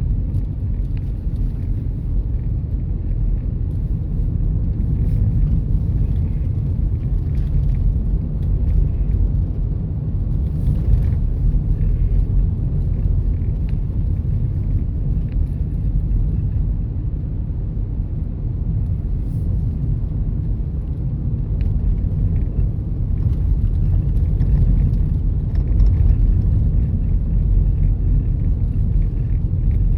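Car driving steadily: a continuous low rumble of road and engine noise.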